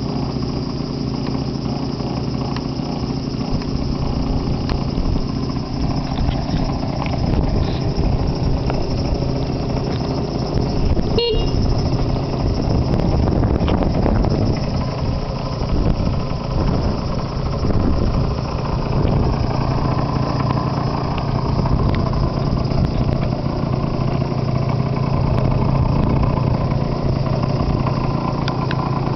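Yamaha Vino Classic's 50 cc two-stroke scooter engine idling steadily, with one short beep of its horn about a third of the way in.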